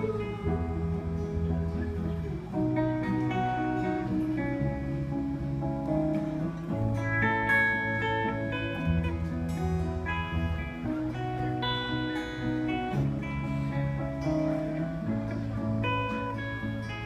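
Guitar strumming chords in an instrumental passage of a live song, the chord changing about every two seconds over a steady low bass line.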